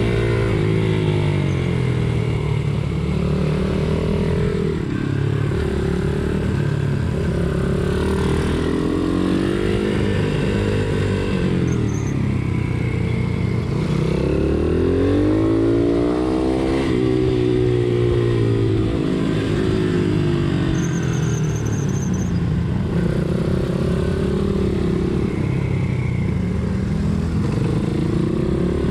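Pit bike engines racing, their pitch climbing and dropping again and again every few seconds as the throttle is opened and shut, with more than one engine note overlapping.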